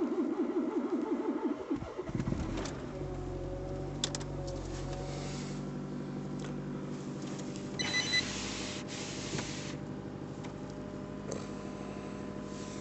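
Honda Fit engine cold-started in hard frost with no preheating: the starter cranks for about two seconds in a pulsing rhythm, then the engine catches and settles into a steady fast idle. A short burst of hiss comes about eight seconds in.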